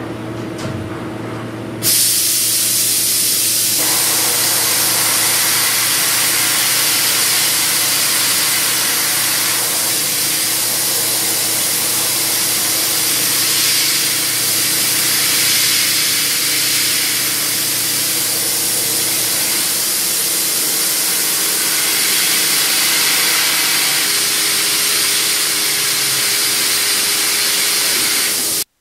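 CNC machining centre running an engraving cut, with a loud, steady hiss of coolant spray over the spindle's hum. The hiss starts suddenly about two seconds in and cuts off sharply near the end.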